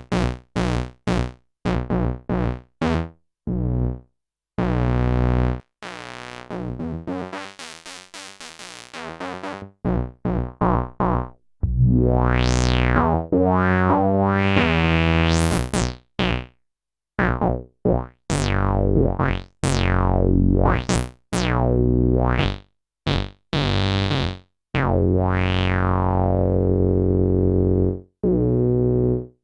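Sequential OB-6 analog synthesizer playing dry low-register notes, with oscillator sync and cross-modulation. It starts with short separate notes, goes through a quieter fluttering stretch, then holds longer notes whose bright overtones sweep up and down.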